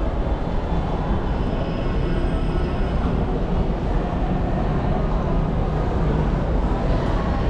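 Steady roar of heavy multi-lane road traffic, a constant rumble with no single vehicle standing out.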